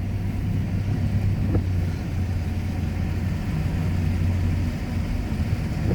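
A car driving steadily: a low engine and road drone with tyre noise, the low hum easing slightly near the end.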